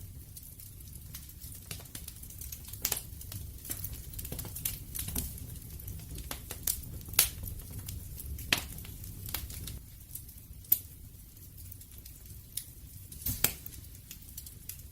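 Wood fire crackling: irregular pops and snaps over a low steady rumble, with a few louder, sharper snaps through the middle and one near the end.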